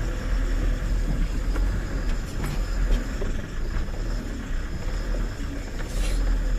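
Tata 1512 truck's diesel engine running as the loaded truck crawls over a rough, stony track, with a steady low rumble and a few scattered knocks and rattles.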